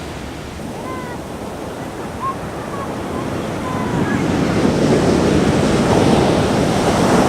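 Big ocean surf breaking on the shore: a steady wash of noise that swells louder about four seconds in as a wave comes crashing in. There is some wind on the microphone.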